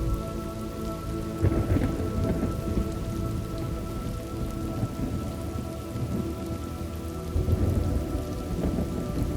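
Thunderstorm ambience: steady rain with thunder rumbling twice, about a second and a half in and again near the end, over soft held tones.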